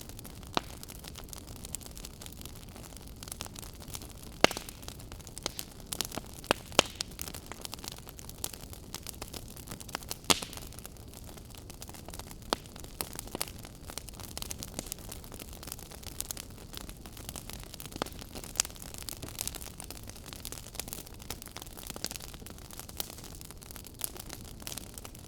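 Fire crackling: irregular sharp pops and snaps over a steady low hiss, with a couple of louder pops about four and ten seconds in.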